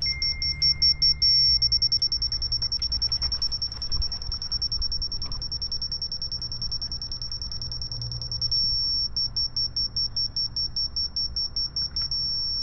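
Laser level receiver beeping in a high pitch: rapid beeps that change about a second and a half in to a steady unbroken tone, then break back into rapid beeps near the end. The fast beeps mean the receiver reads off grade (here 'go down a little bit') and the solid tone means it is on grade.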